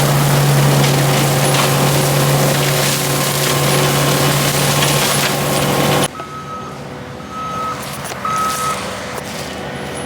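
Tracked skid steer with a brush-mulching head running hard, a loud steady drone with a strong low hum, grinding up brush. About six seconds in it cuts abruptly to the machine heard quieter, its reversing alarm beeping three times as it backs up.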